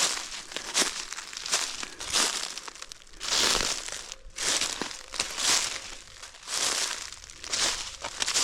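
Footsteps crunching through dry fallen leaves at a walking pace, a crackling rustle with each step, about one to two steps a second.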